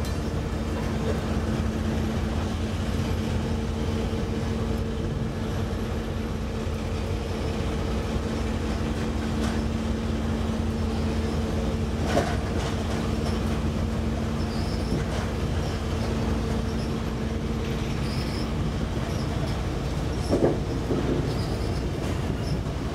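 TEMU2000 Puyuma tilting train cars being hauled slowly past by a diesel locomotive, wheels rolling on the rails with a steady hum. Two clanks come from the running gear, about halfway through and again near the end.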